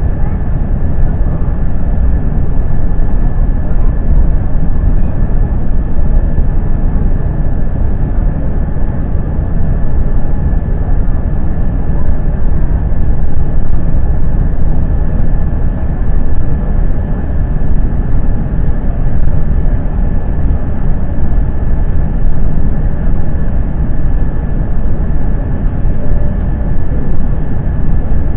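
Jet airliner cabin noise inside an Airbus A350: a loud, steady low rumble of the Rolls-Royce Trent XWB engines and airflow, with a faint steady high whine running through it.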